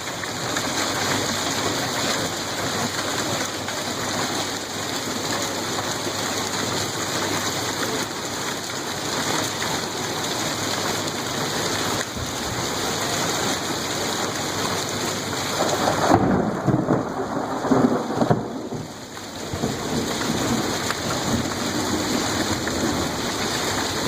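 Heavy hailstorm downpour pelting down steadily. About sixteen seconds in there is a louder, rumbling stretch, and then it eases briefly.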